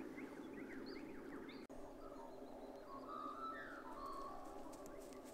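Faint birdsong: several quick chirps that glide in pitch in the first couple of seconds, then a few held whistled notes around the middle, over steady low background noise.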